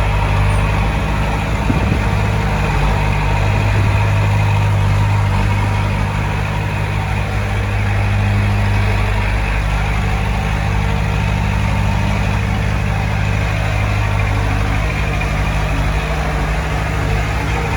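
Heavy-equipment diesel engine running steadily at an even speed.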